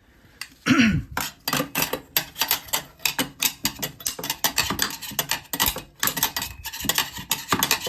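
Rapid, irregular metallic clicking and clinking of hand tools working on an oil burner's metal parts.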